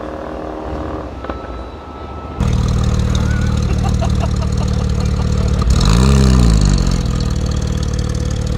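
Two performance cars idling loudly side by side: a Mercedes-AMG E63 S twin-turbo V8 and a Porsche 991 GT3 RS flat-six with iPE exhaust. About six seconds in, one engine is blipped, its pitch rising and falling back to idle within about a second. Before that, for the first two seconds or so, cars are heard fainter and from afar, easing off at the end of a run.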